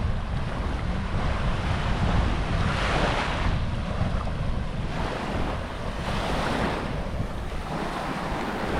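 Small waves washing up on a sandy beach, swelling in a few surges, with wind rumbling on the microphone throughout.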